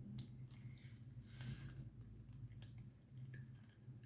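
Small plastic diamond painting drill containers and bags being handled: faint scattered plastic clicks, with one brief rattling rustle about a second and a half in.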